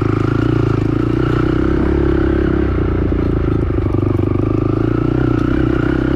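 Honda TRX450R ATV's single-cylinder four-stroke engine running at a steady speed.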